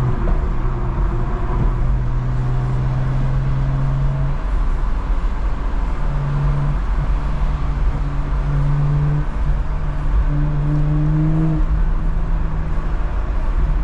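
BMW engine and exhaust droning steadily while cruising, with tyre and wind noise coming in through the open rear windows. The engine note steps up and down in pitch a few times.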